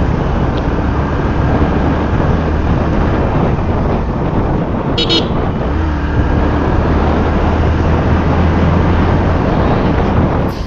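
Wind rush and the steady drone of a Yamaha FZ V3's single-cylinder engine heard from the moving motorcycle, with a short high-pitched horn toot about halfway through.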